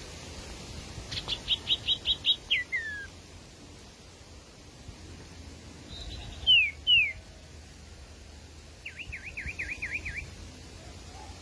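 Sirtu calls in three phrases: a rapid run of about seven short sharp notes ending in two falling whistles, then two loud falling whistles, then another quick run of about seven short notes.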